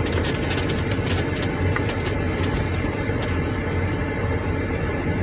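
Car engine and road noise heard from inside a moving car: a steady low hum with occasional light knocks.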